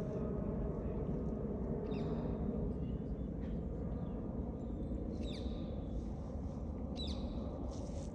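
Low rumble of a four-engined Airbus A380 after its overflight, slowly fading as it flies away. A few short, falling bird chirps come through about two, five and seven seconds in.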